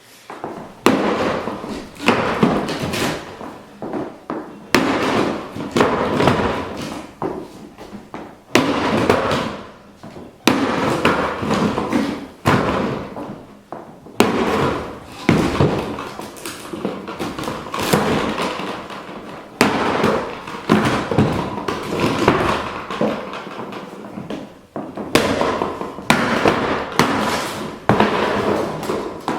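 Boxes being smashed: a sharp crash every second or two at an uneven pace, each one trailing off over about a second.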